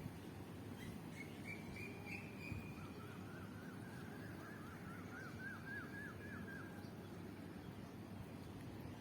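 Birds calling over a steady low background rumble: first a thin held note, then a run of quick repeated chirps, about three a second, that stop near the end.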